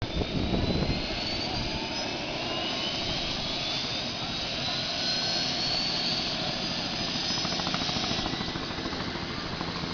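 Helicopter running steadily, a dense whooshing engine-and-rotor noise with a faint high whine slowly rising in pitch. It is a little louder and rougher in the first second.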